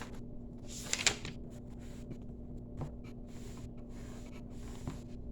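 Quiet room tone with a steady low electrical hum, broken by a sharp click about a second in and a couple of fainter ticks later.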